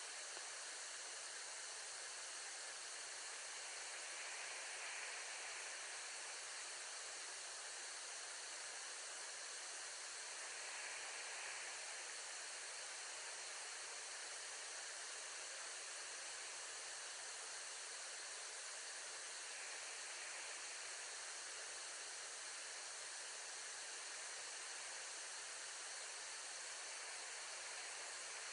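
Steady, even hiss with no calls or other distinct sounds standing out.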